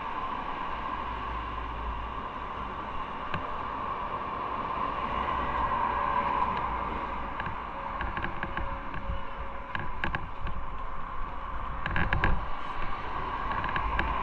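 Motorcycle on the move: a steady rush of wind and road noise with engine rumble underneath. Scattered short clicks and knocks come in the second half, most of them near the end.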